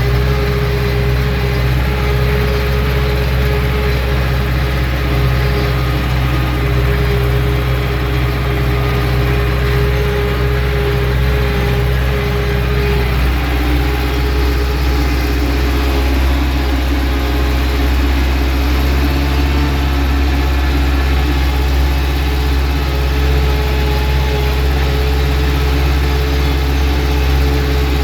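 Ursus C-360 tractor's four-cylinder diesel engine running steadily while ploughing, a continuous deep drone. Its note shifts slightly about halfway through.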